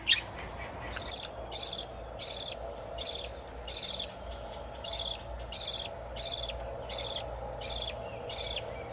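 Cricket-like insect chirping in short, evenly spaced pulses, a little more than one a second.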